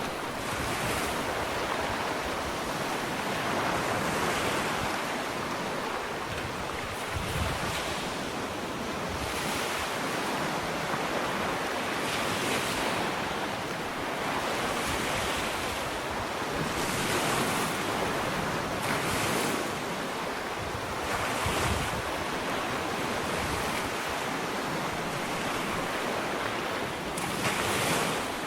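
Small ocean waves breaking and washing up a sandy beach, a steady hiss of surf that swells softly every few seconds, with some wind on the microphone.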